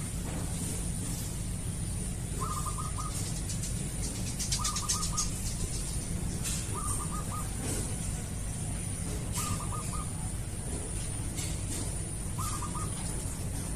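A bird's short call of four or five quick notes, repeated about every two to three seconds, over a steady high whine and a low hum. Light scratching of a ballpoint pen hatching on paper comes in at times, most densely about five seconds in.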